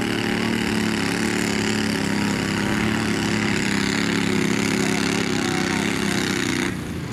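Twin-cylinder garden pulling tractor's engine running hard at a steady high speed under load, then dropping off just before the end.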